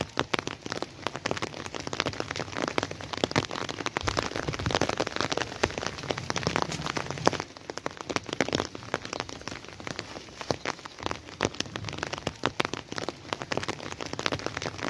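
Rain falling steadily, heard as a dense run of close, sharp drop hits.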